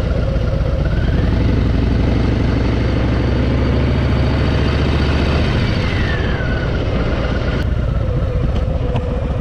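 Harley-Davidson Fat Boy's V-twin engine running on the move, pulling strongly and then easing off about five seconds in.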